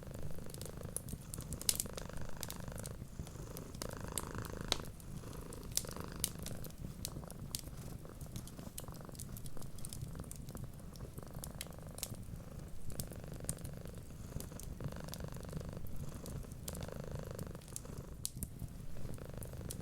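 Domestic cat purring steadily, the purr swelling and easing about every two seconds with its breathing, over the frequent sharp pops and crackles of a wood fire.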